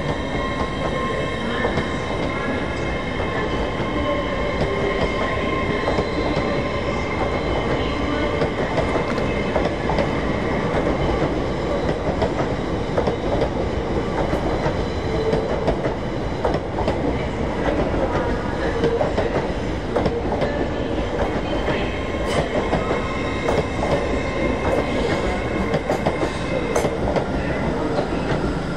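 LNER Azuma (Hitachi Class 800-series) passenger train moving slowly past along the platform: a continuous rumble with a steady whine and wheels clicking over the rail joints.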